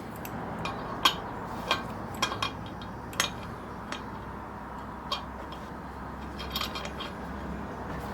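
Small metal parts clinking and tapping as they are handled, about a dozen short, sharp clicks at irregular intervals, over a faint steady hum.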